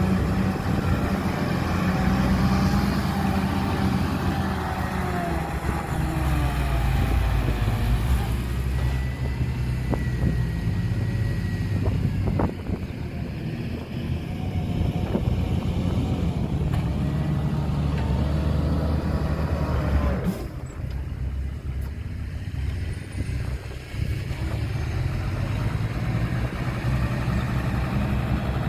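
Diesel engines of heavy earthmoving machinery running steadily, with a few sharp knocks and clanks.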